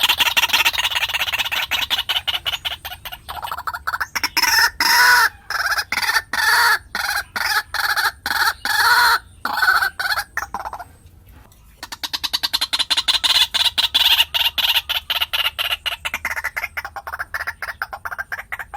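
White-breasted waterhen calling in a long series of repeated notes. It opens with a rapid run, then gives slower, separate loud calls about two a second. After a short pause it picks up into a fast run again.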